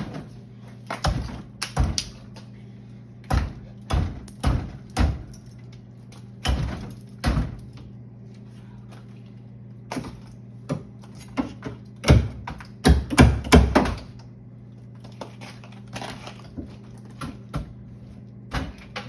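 Irregular knocks and thuds of ice and plastic fridge parts being bashed and pulled loose while clearing ice from an old fridge, with a run of louder hits about two-thirds of the way through. A steady low hum sits underneath.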